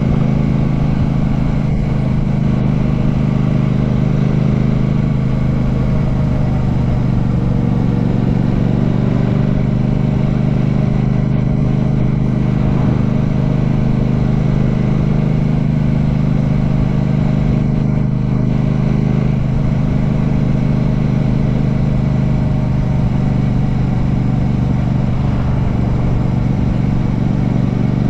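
Royal Enfield Classic 650's 648 cc parallel-twin engine running steadily as the motorcycle rides along, heard from the rider's position, with no marked revving.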